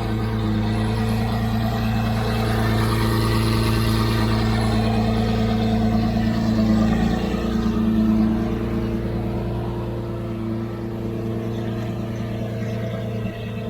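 Car engine running at steady revs, a low even drone that swells slightly about seven seconds in and eases a little afterwards.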